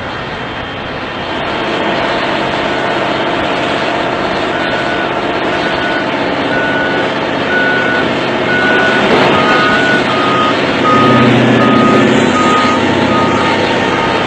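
Reversing alarms beeping about once a second over the steady noise of heavy machinery engines. A higher-pitched beeper sounds first, and a slightly lower-pitched one takes over after about ten seconds. The engine noise rises briefly near the end.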